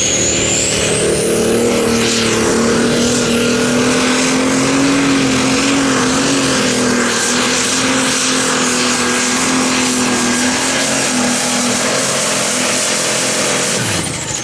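Turbocharged diesel pulling tractor running flat out under load during a pull, its steady engine note topped by a high turbo whistle. Near the end the sound drops off suddenly as the throttle comes off.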